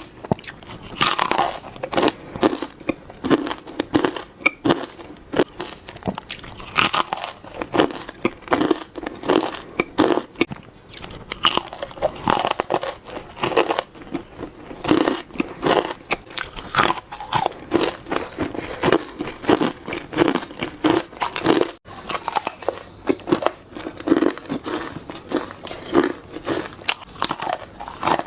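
Hard ice being bitten and crunched between the teeth close to the microphone: a steady run of crisp crunches, one or two a second, with a brief break about three-quarters of the way through.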